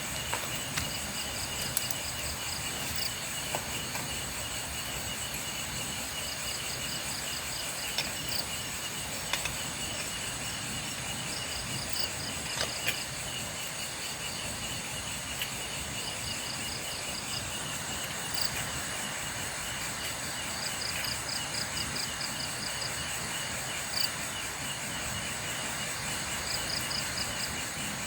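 Night insects calling in chorus: a steady pulsing trill, with short bursts of higher chirps every few seconds and a few faint ticks.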